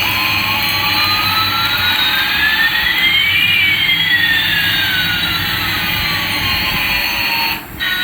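Jet-plane engine sound effect: a steady hiss with two whistling tones, one rising and one falling and crossing midway, that cuts off suddenly near the end.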